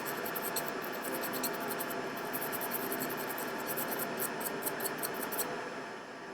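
Rapid, fine scratchy scrubbing on a Nintendo Switch Lite circuit board, cleaning burnt flux residue off it; the scrubbing stops about five and a half seconds in, leaving a steady hiss.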